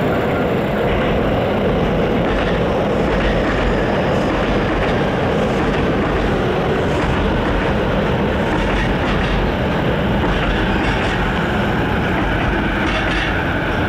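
E233-series electric commuter train pulling into the station, running in alongside the platform and slowing to stop, its wheels rolling over the rails throughout.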